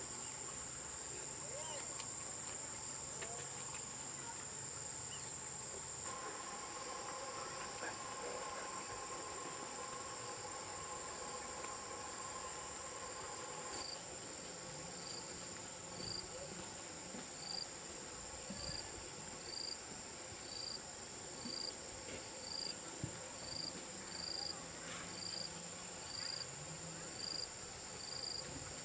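Steady high-pitched drone of insects, crickets or cicadas, calling in chorus. About halfway through, a second chirp joins in, repeating about once a second.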